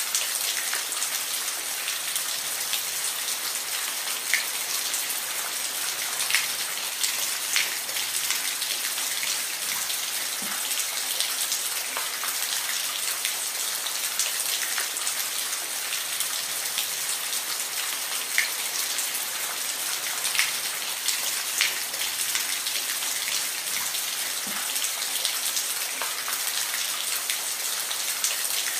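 Steady rain falling, a continuous hiss with scattered individual drops ticking sharply on a surface.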